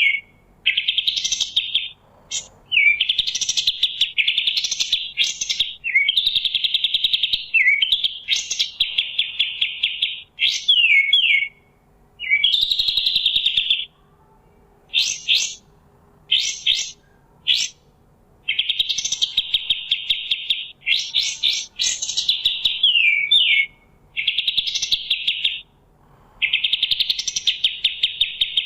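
A songbird of the kind known in Indonesian bird-keeping as kapas tembak is singing loudly in repeated phrases. Each phrase is a fast, buzzy trill mixed with quick downward-sliding notes and sharp high notes, and short pauses fall between the phrases.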